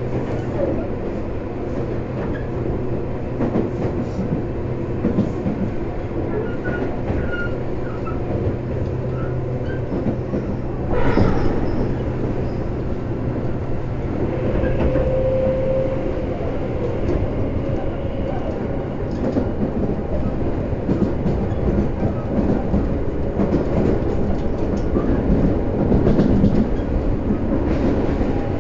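Interior running noise of a Tobu 10030 series electric train: a steady rumble of wheels on rail with a low hum that fades out a little before halfway. There is one sharp clunk about eleven seconds in, and a brief steady tone shortly after.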